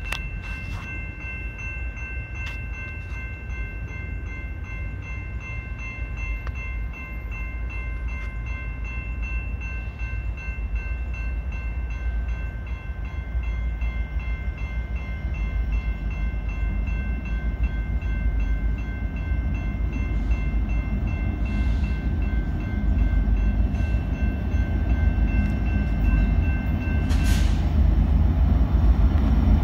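An approaching train on the BNSF Chicago Subdivision, its low rumble growing steadily louder. Over it a steady, high-pitched chord of several tones is held, then cuts off with a click a couple of seconds before the end.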